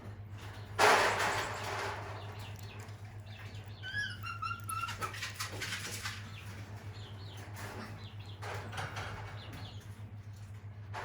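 A sudden loud rustling noise about a second in, then a quick run of short, high chirping calls from a small animal around four to five seconds in, over a steady low hum.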